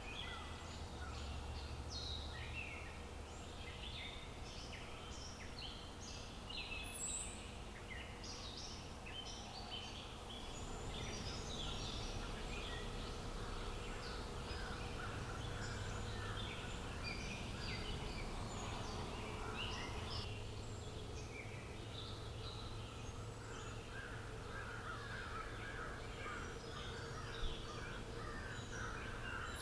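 Many small birds chirping and singing at once, in quick overlapping notes over steady outdoor background noise, with one brief sharp tick near the end.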